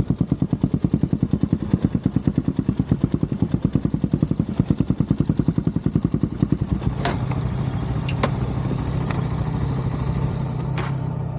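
Honda CB400SS's air-cooled single-cylinder engine idling with an even, rapid thump. About seven seconds in the thumping gives way to a steady higher hum, with a few sharp clicks.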